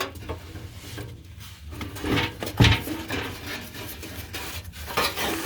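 Handling noises while working on a car: scattered light knocks and rubbing, with one sharper thump about two and a half seconds in.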